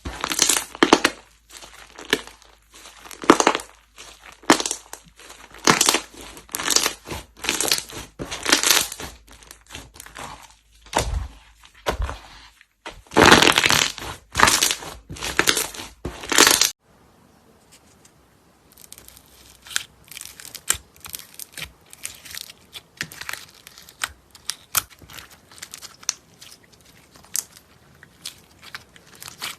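Slime being pressed and squeezed by hand, with loud, irregular crackling crunches. About 17 seconds in it changes abruptly to a quieter run of fine, rapid crackles and clicks.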